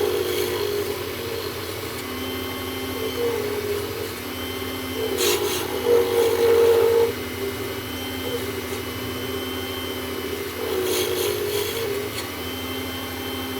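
WEN wood lathe running steadily while a turning tool scrapes an acrylic pen blank, roughing it toward round. The cutting comes and goes, loudest about halfway through, with a couple of sharp ticks from the tool on the spinning blank.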